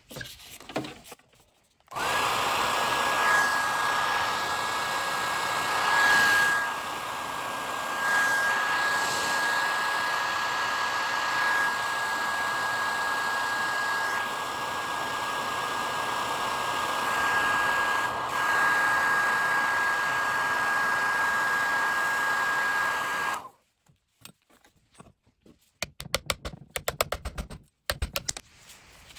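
Heat gun blowing hot air with a steady high whine, switched on about two seconds in and off about twenty seconds later, heating a glued wooden edge to loosen it. A few quick clicks and taps follow near the end.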